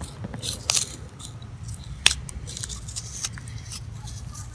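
A knife scraping and cutting the soft white pulp out of a fresh gourd, with irregular scrapes and sharp clicks; the loudest click comes about two seconds in.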